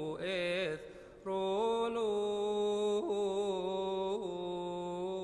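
A solo male voice chanting a Coptic liturgical hymn in long melismatic notes. It breaks briefly about a second in, then holds one long note with small ornamental turns.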